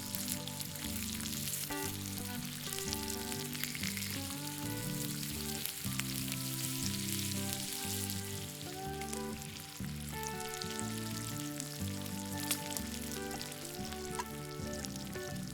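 Meat sizzling and spitting on a hot iron griddle, a steady crackly hiss with small pops, under background music with changing chords.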